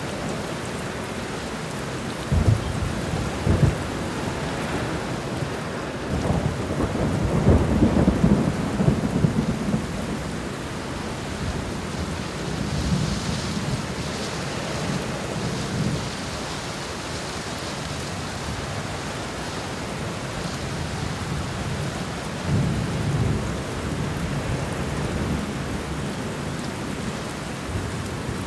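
Steady heavy rain with rolling thunder: a couple of short rumbles a few seconds in, a longer, louder roll peaking about eight seconds in, and fainter rumbles later.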